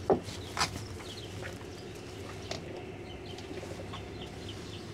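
A bird chirping, a run of short falling chirps repeated several times a second in the second half, over a low steady hum. Two sharp knocks come within the first second and a fainter one about halfway through.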